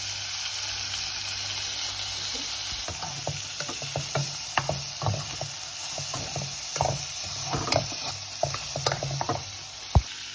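Pork stew frying and sizzling in a pot, with a spoon stirring and clicking against the pot from about three seconds in. One sharp knock comes near the end.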